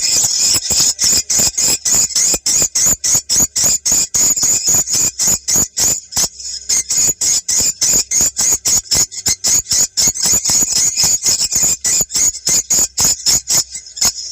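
Recorded swiftlet calls played as a lure: a fast, unbroken train of high, sharp chirps, about four or five a second, with a brief pause about six seconds in. It is the kind of call track swiftlet farmers play to check whether a site draws wild swiftlets.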